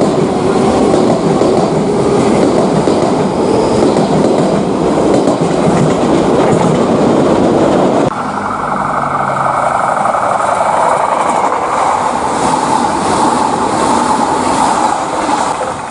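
Electric train running on the rails with wheel and track noise and faint rising motor tones. About halfway through the sound changes abruptly to a quieter, thinner run with steady whining tones, and it fades out at the very end.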